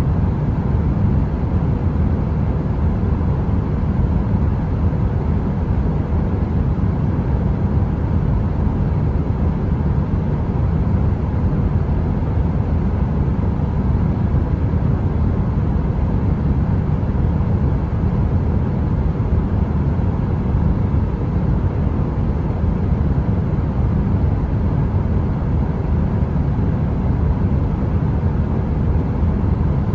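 Steady, deep brown-noise rumble like a heater running, even throughout and strongest in the low end, with no crackles.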